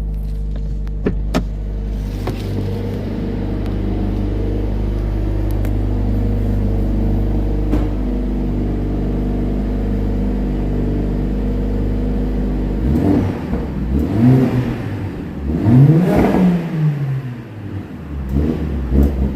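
Mercedes-AMG A45 4MATIC+'s turbocharged four-cylinder engine idling steadily, with a couple of light clicks early. About two-thirds in it is revved several times, the pitch climbing and falling with each blip, the biggest rev near the end.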